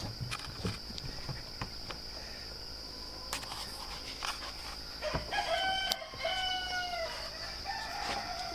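A rooster crowing once, starting about five seconds in, in three drawn-out parts, the last the longest and slightly falling. Behind it is a steady high drone of insects.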